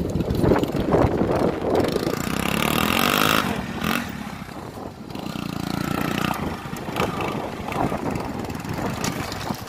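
Motorcycle engine revving under load as it climbs a muddy slope. Its pitch rises sharply a couple of seconds in, then settles to a steadier running note.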